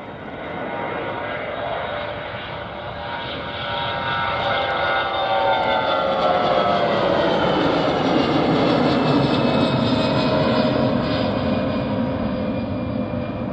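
Passenger aircraft's engines passing close by: a loud rumble with several whining tones that glide down in pitch, growing louder through the first half and holding loud to the end.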